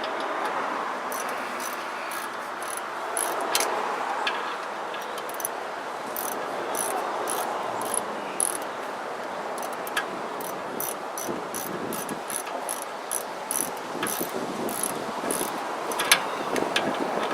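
Ratchet wrench clicking in short, uneven strokes while bolts are turned during a brake pad change, with a few louder metal knocks, over a steady background hiss.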